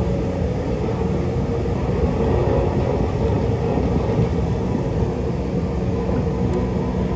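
Heavy diesel engine of earthmoving machinery running steadily, a continuous low drone with a steady hum and no breaks.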